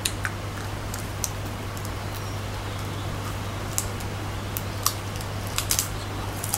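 Crunching bites and chewing on a fried scorpion's thick, crispy shell: a scatter of sharp crackles, most of them in the second half, over a steady low hum.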